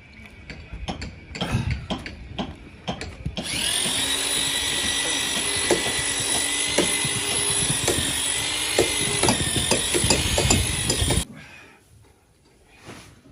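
Electric drill with a mixing paddle stirring lime putty mixed with tung oil, running at a steady speed for about eight seconds and then stopping suddenly. Scattered knocks and clatter come before it starts.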